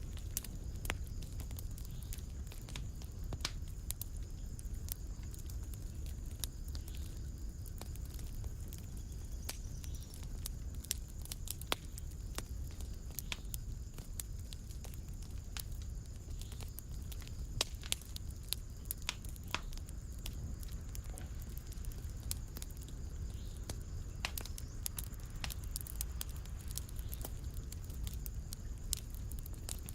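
Wood fire burning in a fireplace, crackling with frequent sharp irregular pops and snaps over a steady low rumble of the flames.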